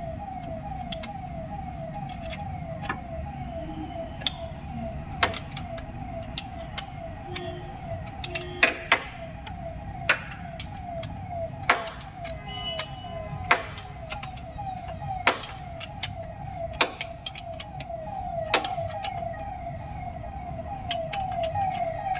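Irregular sharp metallic clicks and knocks from hand-tool work on an engine. Under them runs a steady, rapid chirping tone repeating about three times a second.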